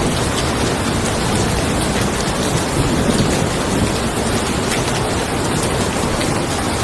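Steady rain falling on a car, with a low rumble of thunder under it that swells slightly about three seconds in.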